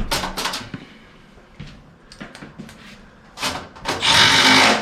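Sheet-metal furnace parts being handled: a sharp knock, scattered scraping and rattling, then one loud scrape lasting most of a second near the end.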